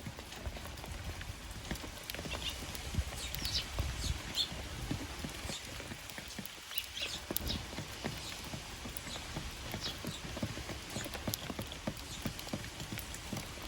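Rain dripping and tapping in irregular taps, with Eurasian tree sparrows giving short chirps now and then.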